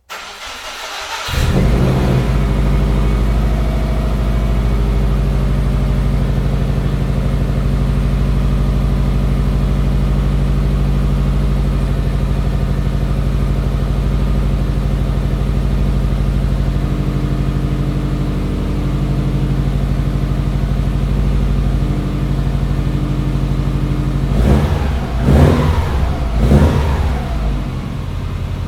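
Subaru engine breathing through a straight exhaust (3-inch downpipe, 3-inch centre section, 2.5-inch Scorpion rear section), cold-started: it cranks briefly, catches about a second in and settles into a steady cold-start idle. Near the end it is revved in a few quick blips.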